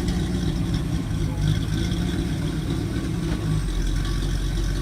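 Classic car engine idling with a steady low rumble, its note changing about three and a half seconds in.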